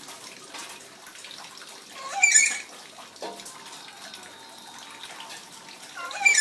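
Running tap water splashing as a pet nuri (lory parrot) bathes, with two short, loud, shrill calls, one about two seconds in and one at the end.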